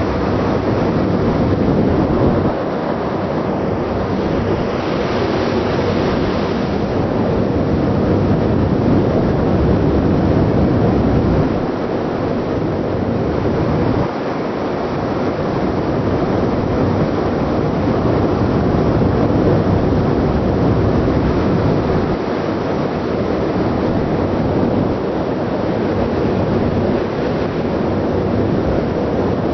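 Steady, loud rushing noise of a ship under way at sea: wind buffeting the microphone over the ship's running noise, with small gusty dips and rises in level every few seconds.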